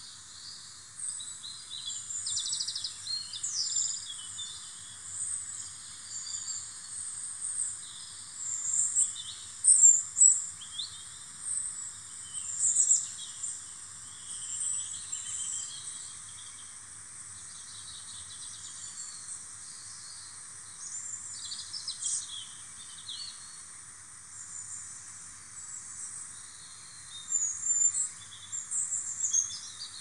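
Songbirds chirping and calling in many short, quick notes, loudest about ten seconds in and again near the end. Underneath runs a steady high-pitched insect trill and a constant background hiss.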